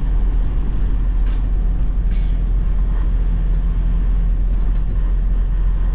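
Semi truck's diesel engine running steadily, a constant low drone heard from inside the cab.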